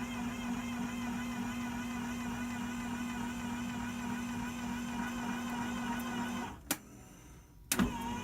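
Milling machine motor running with a steady hum. About six and a half seconds in it cuts out abruptly for about a second, with a click as it stops and another as it comes back.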